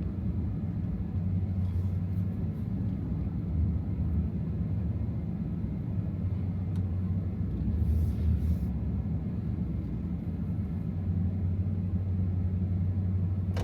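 Supercharged 6.2-litre V8 of a 2024 Ram TRX running at low speed, a steady low rumble that swells slightly about halfway through.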